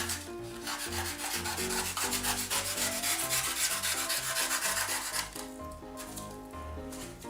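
Rapid rasping, rubbing strokes on polystyrene foam as the boat hull is cut and shaped, strongest in the middle and fading near the end, over background music.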